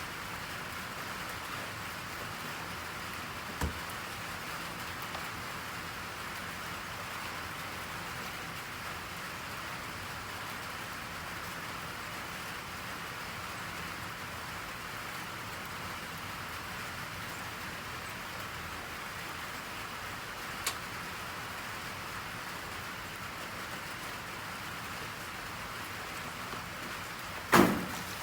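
Steady rain falling. Two faint clicks early and midway, then a louder knock near the end.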